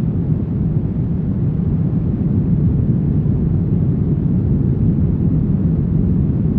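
Brown noise: a steady, deep rushing hiss weighted heavily toward the low end, unchanging throughout.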